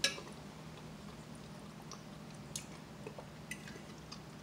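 A person chewing a mouthful of food close to the microphone, with a sharp click at the very start and a few faint clicks later, like a fork touching a plate. A low steady hum sits underneath.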